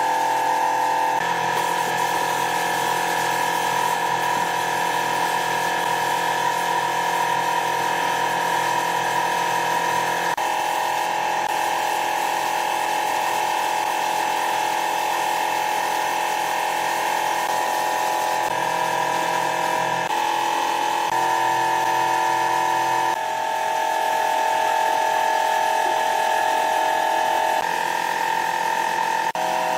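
Electric power tool motor whining steadily at a high pitch. The pitch shifts abruptly several times, as though cut between separate runs of the tool.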